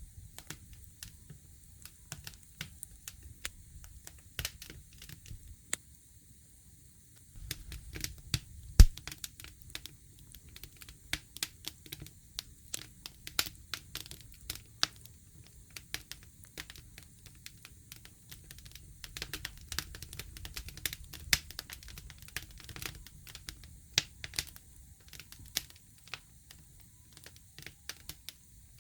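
Wood campfire crackling with irregular sharp pops, one much louder pop about nine seconds in, over a low rumble.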